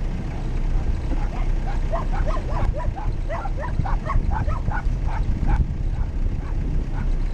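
A dog barking in a quick run of short yaps for a few seconds, over a steady low rumble.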